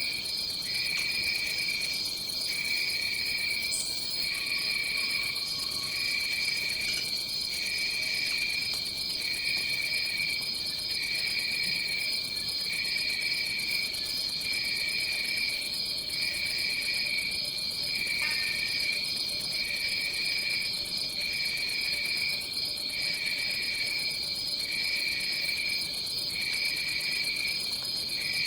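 Chorus of tropical forest insects: one steady high-pitched trill, and a lower trill that pulses with short regular breaks about every second and a quarter.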